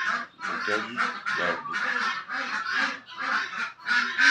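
Poultry, guinea fowl and ducks, calling in a steady run of harsh, raspy cries, about two or three a second.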